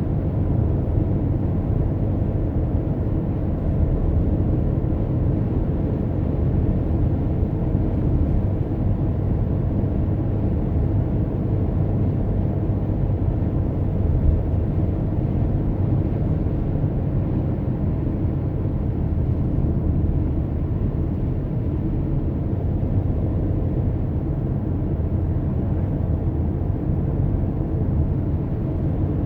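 Steady low road and engine rumble of a car being driven, heard from the moving car.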